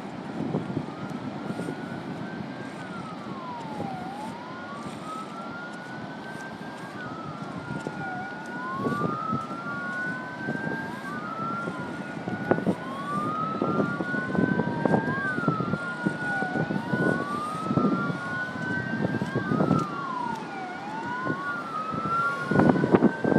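Emergency vehicle siren wailing in slow, repeating rising and falling sweeps, with a second wail overlapping out of step, over an irregular low rumbling noise that grows louder near the end.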